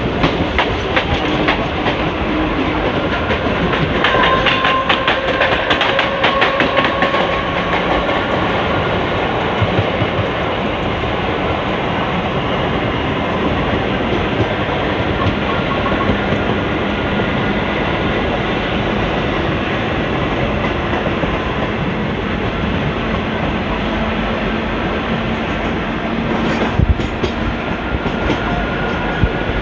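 ICF passenger coach running at speed: a steady rumble of wheels on rail with rapid clickety-clack over rail joints, densest in the first several seconds, and a few sharper knocks near the end.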